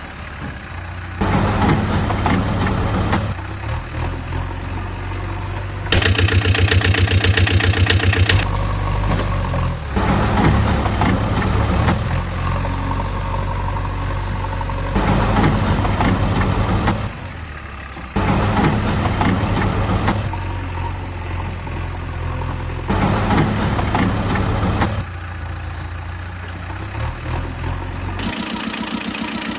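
Vehicle engine sounds in short stretches of a few seconds each, switching abruptly from one to the next. About six seconds in, a louder stretch with a fast, even pulsing lasts roughly two seconds.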